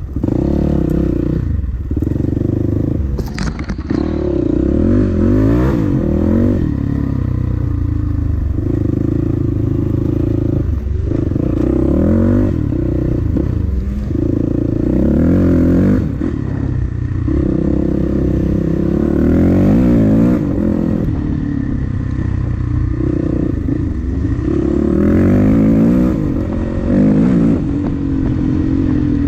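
Dirt bike engine being ridden, revving up and falling back over and over as the throttle opens and closes, with a sharp clack about three seconds in.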